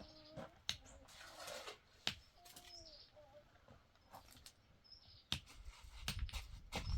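Scattered sharp clicks and light taps, with a few faint short chirps; a low rumble comes in near the end.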